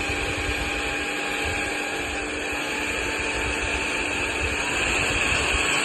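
Cordless stick vacuum cleaner running: a steady motor whine over a rushing airflow hiss, with an uneven low rumble underneath.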